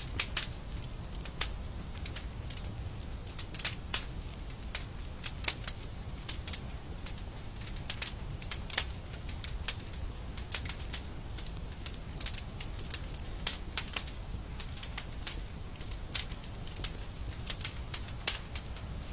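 Wood fire crackling in a fireplace: irregular sharp pops and snaps, several a second and varying in loudness, over a steady low rumble.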